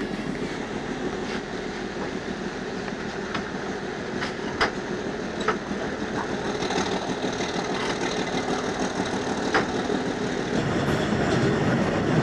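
Diesel-hauled local passenger train running, heard from an open coach window: a steady rumble of wheels on rails with a few sharp clicks, growing louder about three-quarters of the way through.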